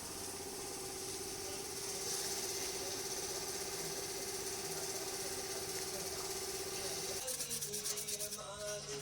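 A steady mechanical hum; about seven seconds in it gives way to rhythmic rubbing strokes.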